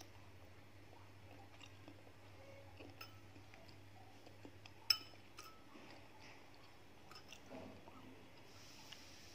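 Soft, close-up chewing of balut (fertilized duck egg), with small wet clicks of the mouth. About five seconds in, a glass bowl clinks once with a short ring as the egg is dipped into the salt and pepper.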